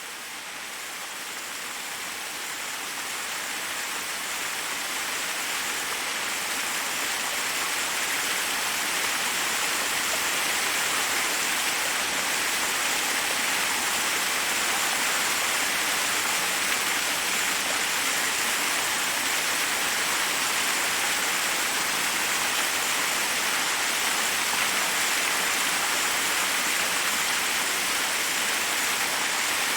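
Waterfall water rushing in a steady, even hiss, swelling in from quiet over the first ten seconds or so.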